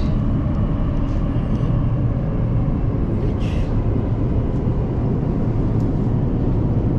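Steady low rumble of an Elizabeth Line Class 345 electric train running.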